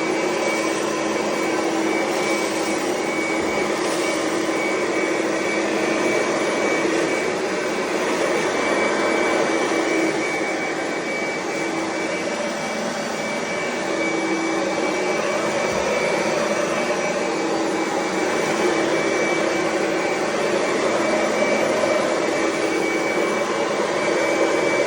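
Vacmaster Ultralight upright vacuum cleaner, a knockoff of the Oreck magnesium, running steadily while vacuuming up crackers. Its motor gives a steady whine over a constant rush of air.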